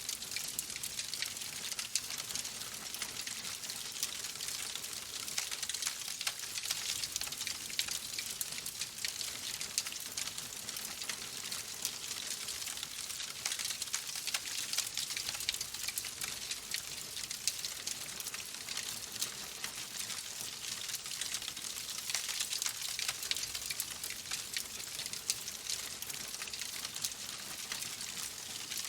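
Fireplace wood fire crackling: a steady hiss dotted with frequent small pops and snaps.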